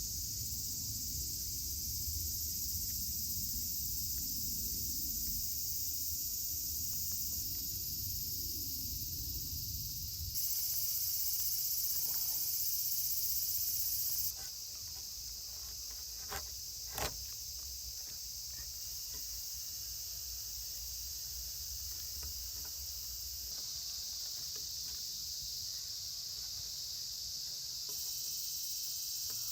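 Steady high-pitched chorus of crickets and other insects, stepping louder or quieter at a few abrupt points, with two sharp clicks a little past the middle.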